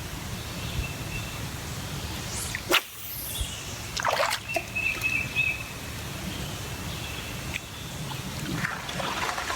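Creek-side ambience: water trickling, with a brief bird call. A sharp click a little under three seconds in and a short rustle about a second later.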